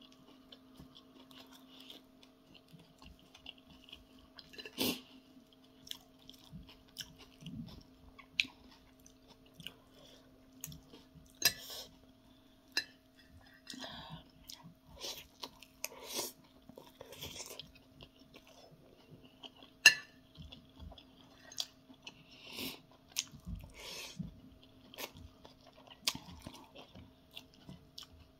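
Close-up chewing and mouth sounds of a person eating, with irregular sharp clicks of a metal fork and spoon against a plate. A faint steady hum runs underneath.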